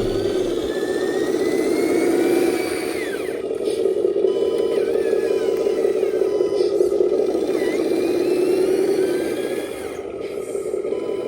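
Radio-controlled model dump truck driving, its small electric motor and gearbox running with a steady whirring drone. A higher whine rises in pitch over the first three seconds, drops sharply, and shifts up and down as the throttle changes.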